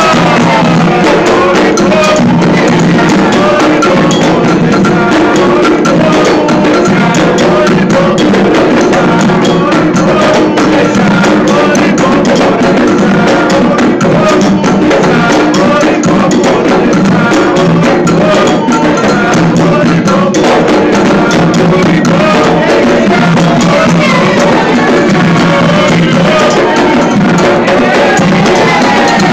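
Candomblé ritual music: hand drums and a clanking metal bell played in a fast, unbroken rhythm, with voices singing a chant at the start and again near the end.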